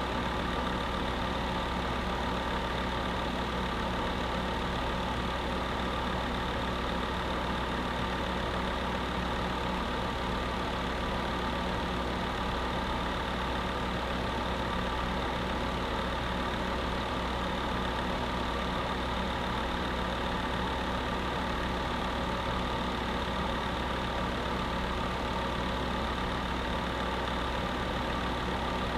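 Space heater running steadily: an even rushing noise with a constant hum that does not change.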